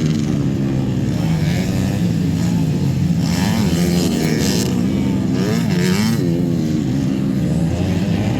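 Motocross bike engines racing, revving up and down as the riders work the throttle, with more than one engine heard at once.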